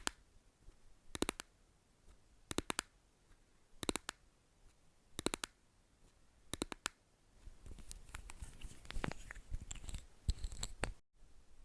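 Rhythmic ASMR tapping: quick groups of three or four taps about every second and a third, giving way in the last few seconds to a denser scratching and rustling.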